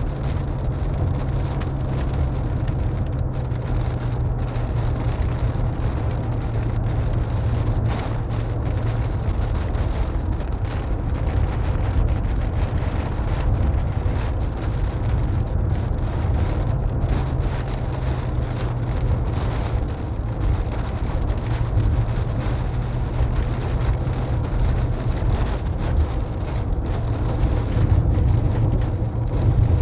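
A car driving in the rain: a steady low road rumble under an even hiss of rain and wet tyres.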